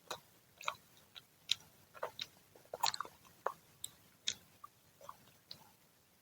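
A person chewing and biting freshly fried Indonesian fritters (gorengan): irregular short crisp crunches and mouth smacks, some in quick clusters.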